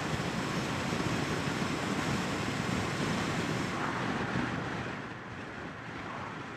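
Wind rush and engine and road noise from a Triumph Bonneville T120 motorcycle under way, a steady rushing blend that quietens about five seconds in.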